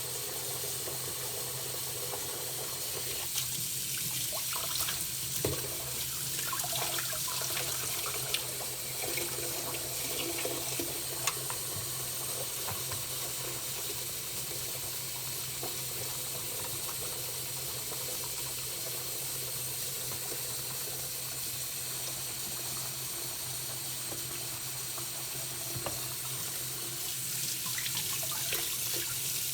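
Tap water running steadily into a sink, with a few light knocks and clicks as a knife blade is washed and scrubbed.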